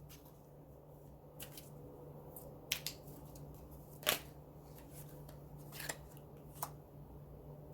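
Letter pieces being handled on a table: scattered light clicks and rustles, about seven sharp ones spread through, over a steady low hum.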